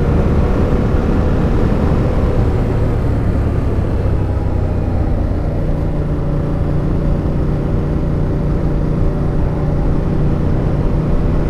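Suzuki motorcycle engine running while riding, with wind rushing over the microphone. The engine note changes about halfway through.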